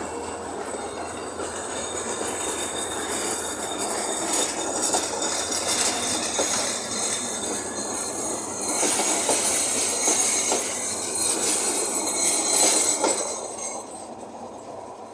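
Train of hauled passenger coaches rolling past, with wheels clacking over rail joints and squealing in a high hiss. It fades away about thirteen seconds in as the train moves off.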